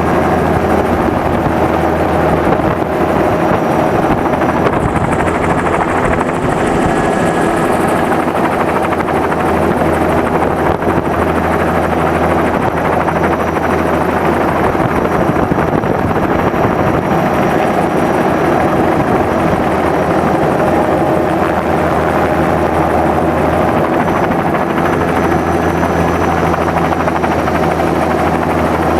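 Helicopter in flight: steady, continuous rotor and engine noise.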